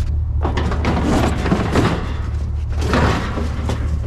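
Two spells of rough clattering and scraping as a found object is handled, the first about a second and a half long, the second shorter near three seconds in. Underneath is the steady low hum of a vehicle engine idling.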